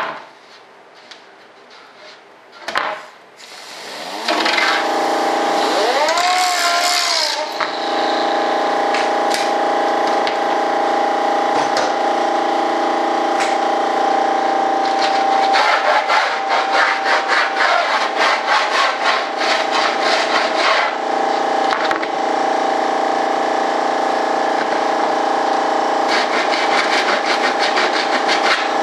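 A small electric power tool starts about four seconds in and runs steadily, grinding off hardened CA glue on the wooden airframe. Rapid rasping strokes are heard as it bites into the work.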